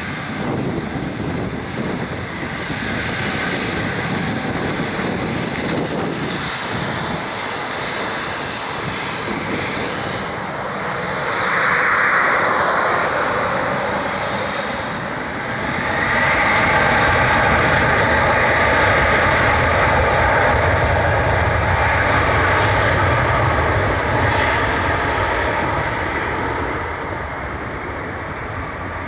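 Gulfstream G650 business jet's twin turbofan engines running at takeoff power. The noise swells about eleven seconds in and again from about sixteen seconds, with a deep rumble, then eases a little near the end.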